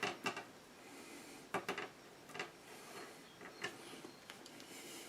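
Faint, scattered handling noises: light clicks and rustles from hands moving a taped quivertip and its masking tape and cling film.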